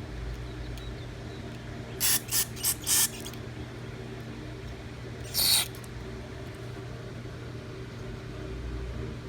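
Short hissing spray bursts into the carburetor's air bleed passages: four quick bursts about two seconds in and one more about five and a half seconds in, over a steady low hum.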